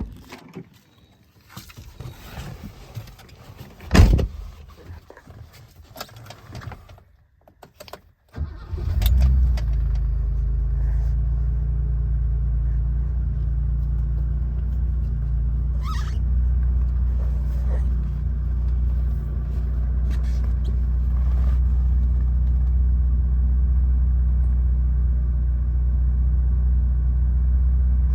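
A few knocks and clicks, then about eight seconds in the 1979 BMW 528i's 2.8-litre straight-six fires up from cold and settles into a steady idle.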